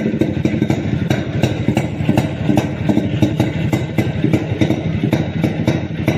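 Yezdi 250 Classic D's two-stroke single-cylinder engine running at idle, firing in a rapid, slightly uneven beat.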